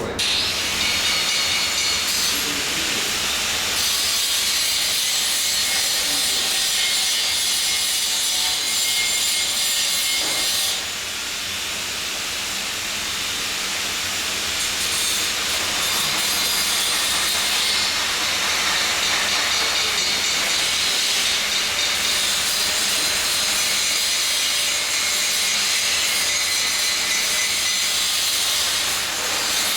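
Welding work with a steady hiss that starts suddenly and keeps on, dipping briefly about eleven seconds in.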